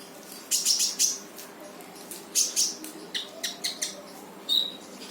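Konin songbird calling in loud 'tembakan' bursts: quick clusters of sharp, rattling high notes repeated every second or so, with a short clear whistle near the end.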